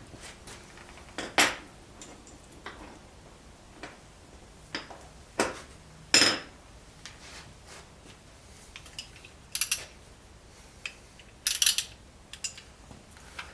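Metal hand tools, a ratchet and socket, clinking and knocking as they are worked into place, a dozen or so sharp irregular clanks with a few quick clicks in between, the loudest about six seconds in.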